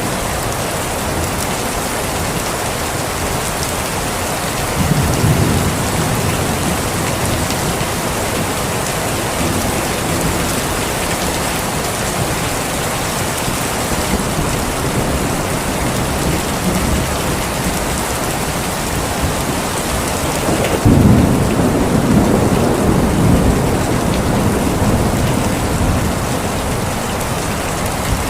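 Steady heavy rain, with two rolls of thunder: one about five seconds in and a louder one about twenty-one seconds in, each fading slowly.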